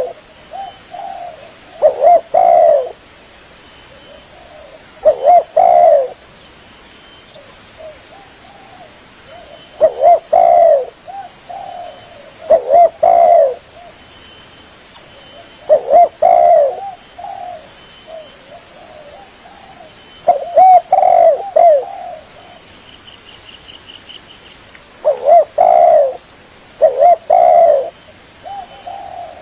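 Spotted dove cooing: short phrases of two or three notes, repeated every few seconds.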